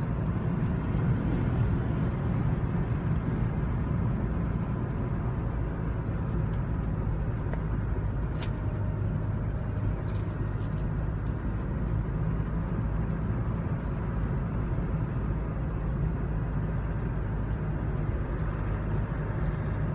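Steady engine and road noise heard from inside the cab of a moving vehicle, with a low, even drone and a few faint ticks partway through.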